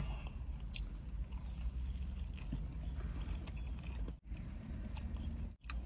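A man biting into and chewing a slice of pizza: quiet mouth sounds with small scattered clicks over a low steady hum.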